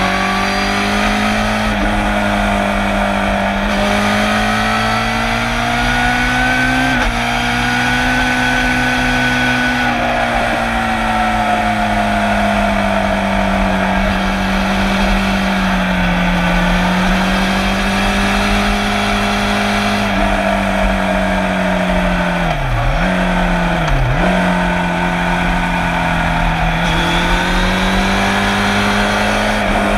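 Suzuki GSX-R750 SRAD's inline-four engine running hard under racing load, heard close to its exhaust silencer. The engine note rises and falls through the bends, with two quick sharp dips in revs about two-thirds of the way through.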